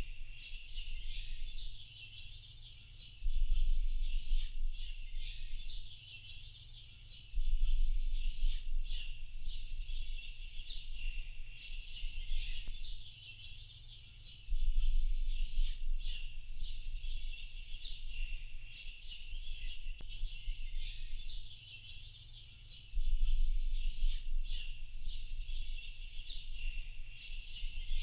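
Dense chorus of many small birds chirping and twittering together. A low rumble swells up four times and is the loudest part of the sound each time it comes in.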